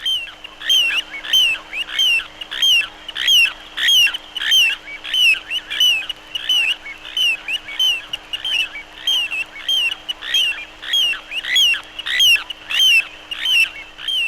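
Male little ringed plover singing its display-flight song: a long, even run of short 'tria' notes, about one and a half a second.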